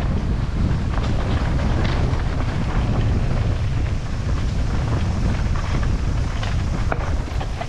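Wind rushing over the microphone, mixed with the rattle and scattered knocks of a bike running fast down a rough, rocky trail.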